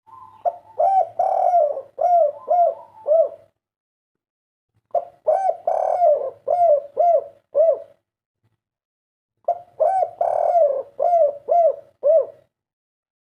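Spotted dove (tekukur) cooing of the 'kuk 3' song type: three phrases of several hooting coo notes each, with short pauses between them.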